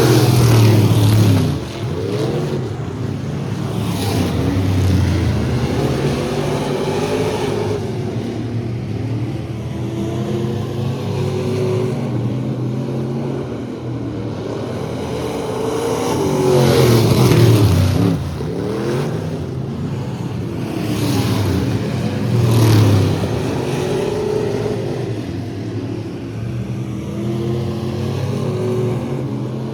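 Several race trucks lapping an oval track, their engines revving up and down through the corners and straights. The sound swells each time the pack passes, loudest right at the start, a little over halfway through, and again soon after.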